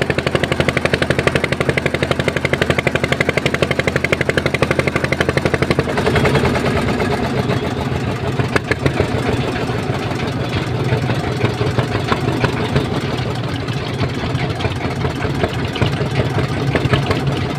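Boat engine running with a fast, even thumping beat; about six seconds in the note changes to a rougher, less regular running sound.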